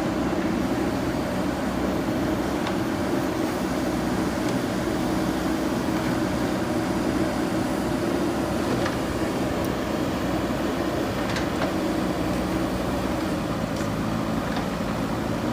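JCB backhoe loader's diesel engine running steadily, with a few faint clicks over the hum.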